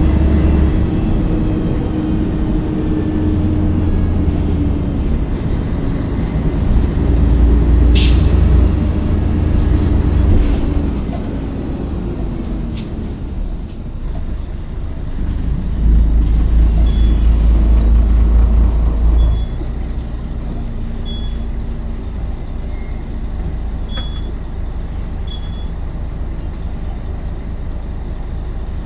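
Scania L113CRL bus's 11-litre six-cylinder diesel engine running, easing off about 11 seconds in, pulling harder again briefly, then settling to a steadier, quieter run. A sharp click comes about 8 seconds in, and short high pips sound about once a second through the second half.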